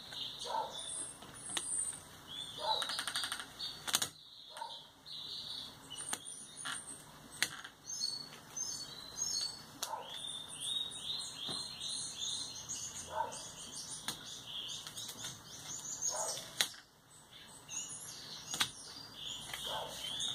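A small bird chirping and twittering in quick runs of high notes throughout. A few sharp knocks and short rustles come from hands working a sticker onto a wooden wardrobe door.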